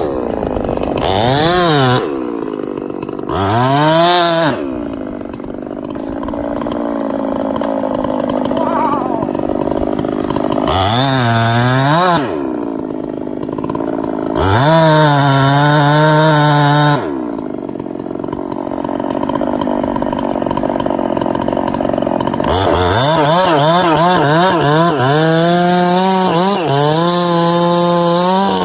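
Chainsaw engine revving up to full throttle and dropping back several times, held at high revs for a couple of seconds around the middle and again for most of the last five seconds.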